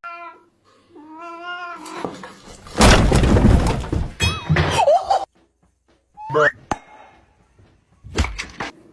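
A domestic cat meowing and yowling several times in short, wavering calls, broken up by a loud burst of noise about three seconds in and a few sharp knocks.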